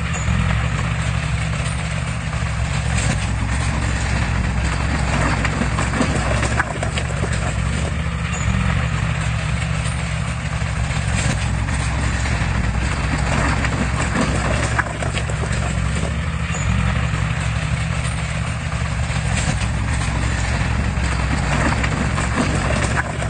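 Heavy earthmoving machine's diesel engine running steadily under load, with scattered light clanks over the engine.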